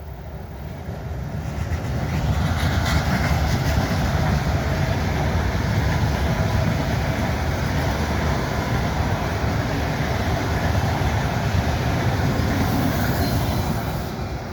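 A train passing close by on the rails with a steady rumble that swells over the first two seconds, holds, and dies away near the end.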